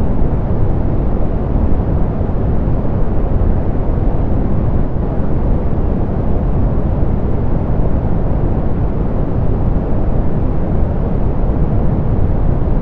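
Steady, softened pink noise: an even, unchanging hiss weighted toward the low end, with little above the upper mids.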